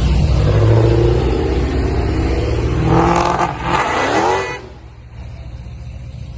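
Car engine revving hard, its pitch climbing in two quick rises, then falling away sharply about four and a half seconds in.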